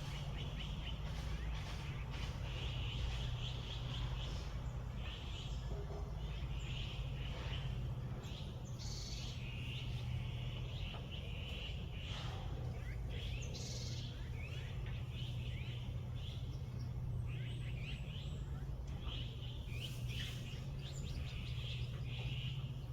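Small songbirds chirping and trilling in short repeated phrases about a second long, over a steady low background hum.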